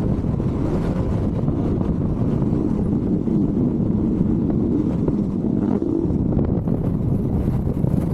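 Wind rushing over the camera microphone on a moving Honda ADV160 scooter, with the scooter's engine running underneath: a steady, even noise.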